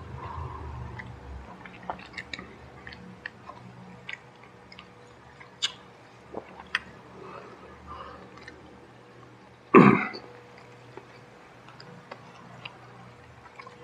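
Close-up chewing sounds of someone eating ayam geprek (fried chicken) and rice by hand, with scattered small wet mouth clicks. About ten seconds in there is one short, much louder sound.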